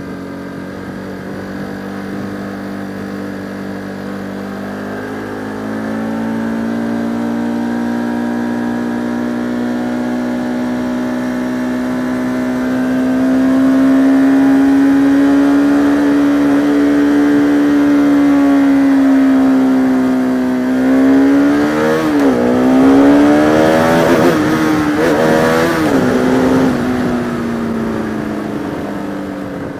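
Single-cylinder engine of a Bajaj Pulsar RS200 motorcycle running under way. Its pitch rises about five seconds in and holds steady, then the revs dip and climb sharply a few times past the middle before easing off toward the end.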